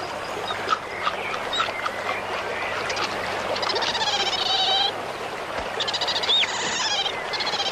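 Birds calling: bouts of fast, high rattling trills with a few short upward-sweeping chirps, over a steady background hiss.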